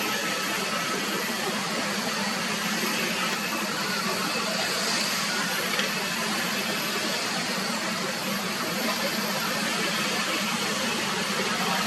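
Steady rushing noise of an airliner's jet engines, even in level throughout.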